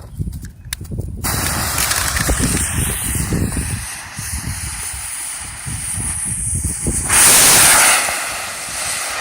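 A D-size model rocket engine on a rocket car fires: after a few clicks, a loud hiss starts suddenly about a second in and runs on, with a louder burst of hiss near the end.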